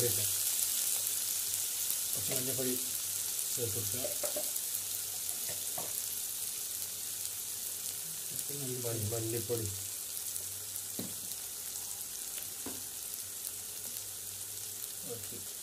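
Sliced onions, tomatoes and green chillies sizzling in oil in a wok, a steady high hiss that slowly fades, as the onions soften with salt. Now and then a spatula stirs and knocks against the pan.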